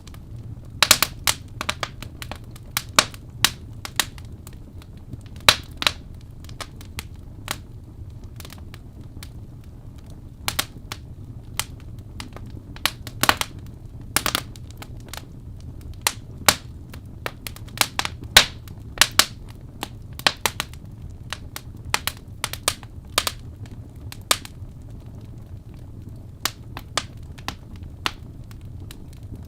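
Wood fire in a fireplace crackling: irregular sharp pops and snaps, several close together at times, over a steady low rumble of the burning.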